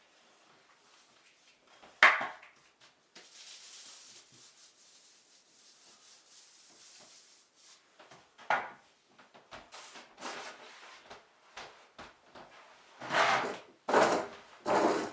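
Wallpapering work noises: scattered rubbing and rustling with a few knocks, a sharp knock about two seconds in, and a soft hiss for a few seconds after it.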